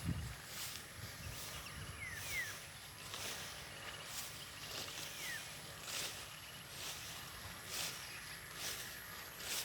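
Footsteps swishing through grass or brush at a slow walking pace, about one a second. A bird gives a few short falling chirps between them.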